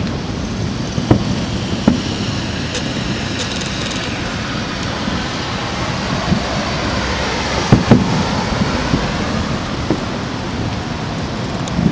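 Continuous rolling rumble of a fireworks display, with a few sharper bangs and a brief patch of crackling. The speaker calls it thunder.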